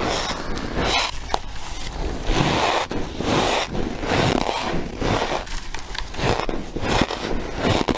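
Freezer frost being bitten and chewed, a steady run of grainy crunches about once or twice a second.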